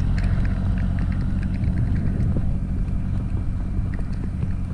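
Truck engine running steadily as the truck is moved through deep snow, a low even rumble.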